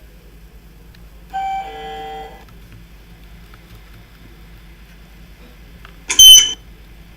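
Lift chime: a short electronic tone that steps down in pitch, about a second in. Near the end comes a much louder, high-pitched electronic beep lasting about half a second.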